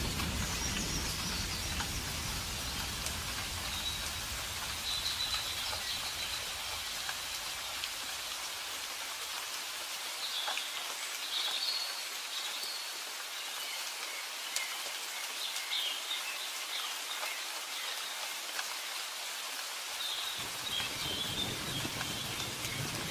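Steady rain falling, an even hiss, with scattered faint bird chirps. A low thunder rumble fades out over the first few seconds and comes back near the end.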